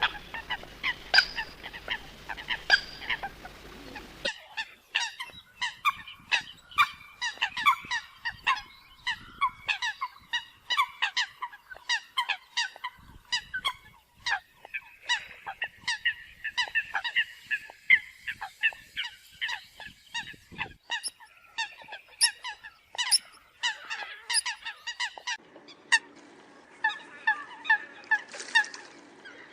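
Eurasian coots calling: a rapid, overlapping series of short, sharp honking calls, several a second. The background changes abruptly about four seconds in and again near the end, where one recording is spliced to the next.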